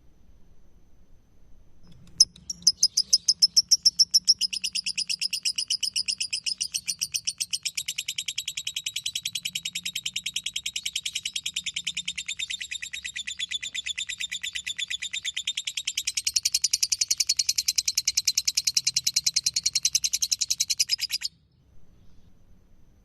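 Lovebird singing its 'ngekek': one long, unbroken, rapid chattering trill of high notes. It starts about two seconds in, is loudest at its opening and again in its last few seconds, and stops abruptly after about nineteen seconds.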